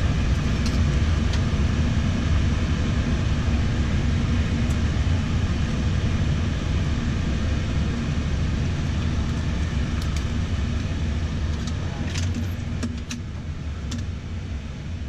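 Steady flight-deck hum of a parked Airbus A320 with its engines shut down, with air-conditioning and avionics fans running. There are a few sharp clicks late on, and the hum drops a step about two seconds before the end.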